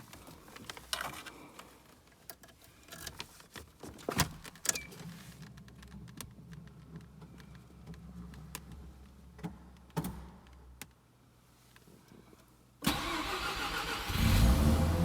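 A few scattered clicks and knocks over a faint low hum, then about 13 s in the starter suddenly cranks the 1987 Mazda RX-7's 13B rotary engine and it catches about a second later, running loud on a cold start.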